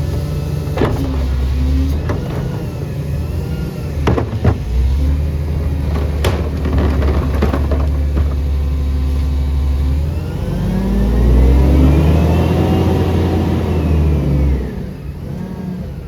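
A CNG Peterbilt garbage truck's engine runs steadily, with several sharp knocks and bangs in the first half. About ten seconds in, the engine revs up and back down over about four seconds, then drops back.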